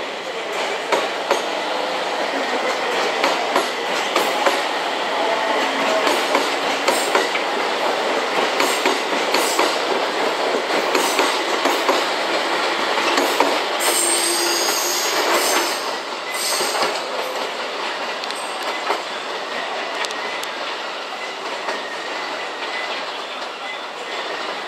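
A JR East 701 series electric train rolls out of the station, its wheels clattering over rail joints and points. A brief high wheel squeal comes a little past halfway.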